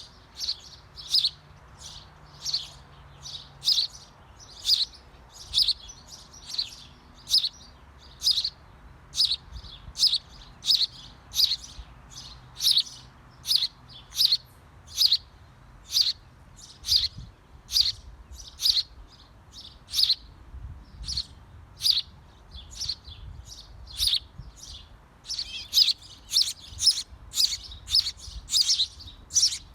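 A bird chirping: short, high, sharp chirps repeated about one and a half times a second, coming faster and closer together near the end.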